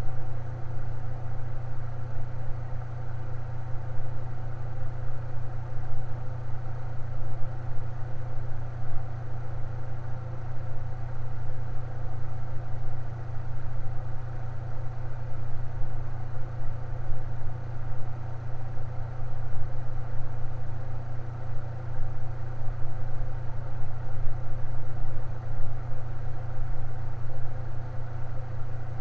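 Electric fan running steadily: a constant low motor hum with fainter steady whirring tones above it.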